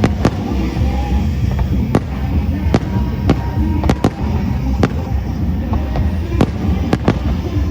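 Aerial fireworks going off: about a dozen sharp bangs at irregular intervals over a continuous low rumble of bursting shells.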